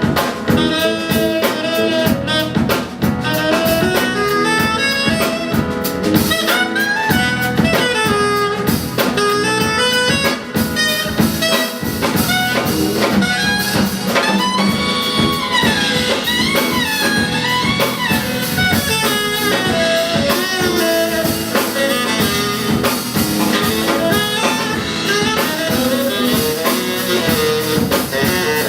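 Instrumental jazz passage led by a tenor saxophone playing a winding melodic solo line over piano, bass and drum kit.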